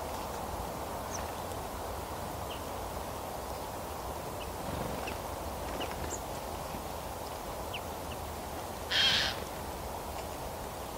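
Tropical forest ambience: a steady background hiss with scattered faint, very short high bird chirps, and one brief, louder high-pitched call about nine seconds in.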